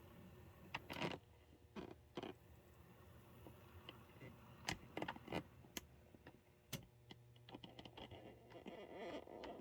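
Athearn Genesis HO-scale MP-15 model diesel locomotive test-running on track after its dried grease was cleared and the gears relubricated. A faint low motor hum runs for a stretch in the second half, with scattered light clicks throughout.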